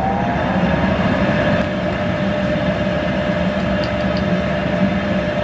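Gas water heater running steadily after its flame sensor was cleaned, a constant low rumble with a steady whine that rises slightly at the start and then holds. It is the sign that the burner is staying lit.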